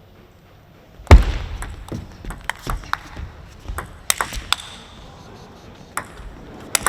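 Table tennis rally: the ball clicking sharply back and forth off the bats and table in quick strokes, after a heavy thud about a second in. The strokes come thick for about three seconds, then thin out to a few more near the end.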